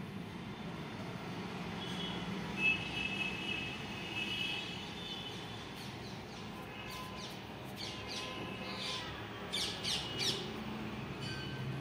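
Birds calling and chirping: drawn-out high notes in the first half, then a run of short, quick chirps near the end, over a steady low background hum.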